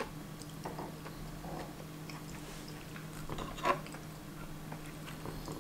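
Close-miked chewing of a mouthful of baked beans, soft and wet, with a few small clicks of cutlery on a plate, one a little louder near the end, over a faint steady hum.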